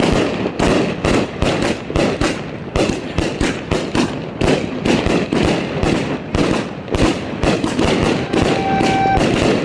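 Consumer firework going off in a rapid string of sharp cracks and bangs, several a second, with a steady whistle starting near the end.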